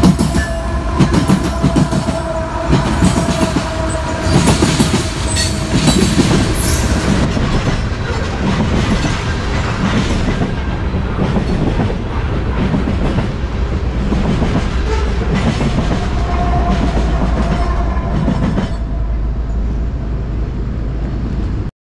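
Empty tank-car freight train rolling past, its wheels clicking rapidly over the rail joints above a steady low rumble, with a held tone in the first few seconds. The clicking thins out and the sound grows duller near the end.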